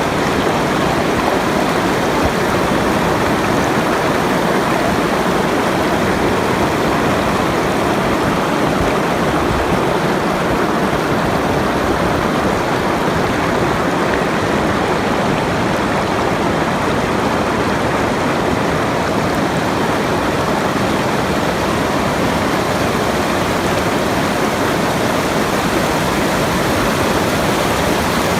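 Running water rushing steadily, an even unbroken noise with no changes.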